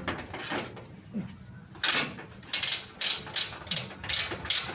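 Socket ratchet wrench clicking in short repeated strokes, about two to three a second from about two seconds in, as the engine skid-plate bolts are loosened.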